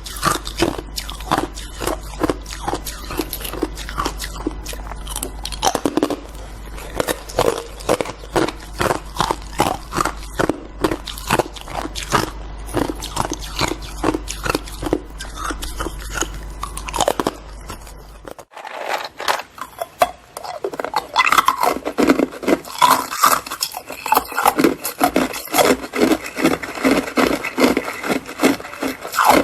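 Hard white ice being bitten and chewed close to the microphone: rapid, irregular crunching and cracking, which grows denser about two-thirds of the way through.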